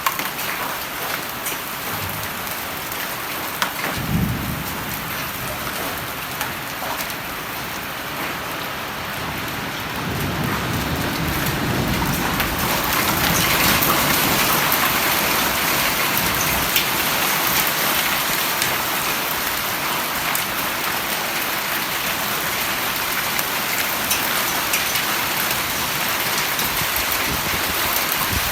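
Heavy rain pouring steadily, growing louder about ten seconds in. A brief low thump about four seconds in.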